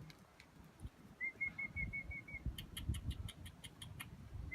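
Rosella parrot calling: a quick run of about eight short, even notes at one pitch, followed by a fast series of sharp chips.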